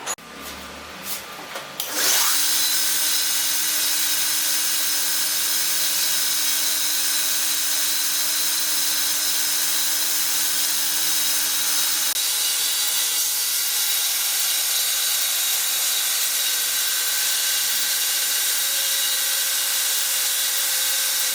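A few sharp knocks, then about two seconds in a homemade 2x48 belt grinder starts running, a loud steady power-tool noise with a constant whine and hiss that holds at an even level.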